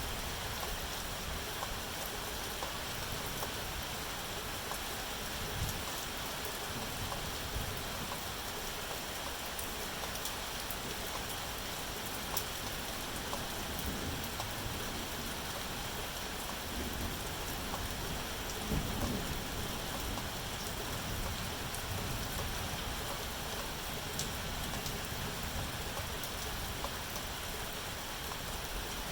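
Steady rain falling, a continuous hiss with scattered individual drop ticks.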